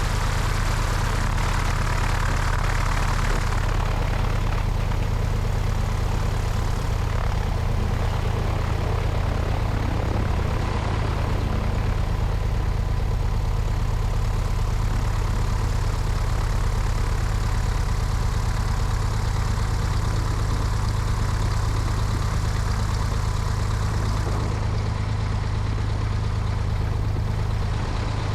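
Cessna 172's piston engine and propeller running steadily at low, idle-like power, heard from out on the wing with some wind noise.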